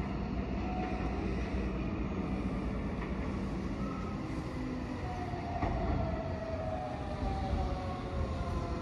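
Keihan 7000-series electric train approaching and slowing into the platform, a steady low rumble of wheels on rails. From about halfway in, a whine starts falling slowly in pitch as the train brakes.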